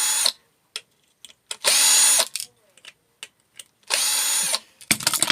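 Power drill-driver running in three short bursts about two seconds apart, backing screws out of a microwave's parts. A metallic clatter follows near the end.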